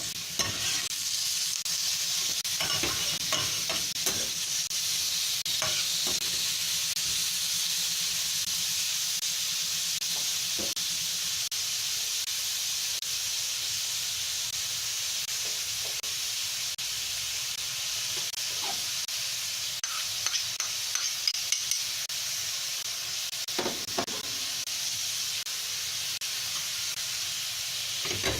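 Food sizzling steadily in a hot frying pan as it is stir-fried, with scattered clicks and scrapes of a utensil against the pan. The clicks come most often about two-thirds of the way through.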